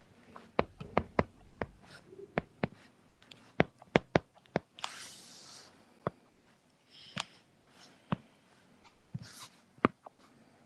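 Irregular sharp clicks of a computer mouse and keyboard being worked during computer drafting, with a short rustling hiss about five seconds in.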